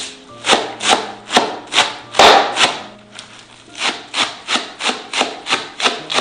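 Wood being sawn by hand in quick, regular back-and-forth scraping strokes, about two to three a second, with a short pause about three seconds in.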